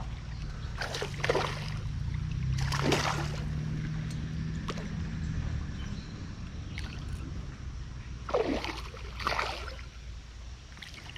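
A hooked smallmouth bass splashing at the water's surface several times as it fights the line, over the steady low rumble of a passing car.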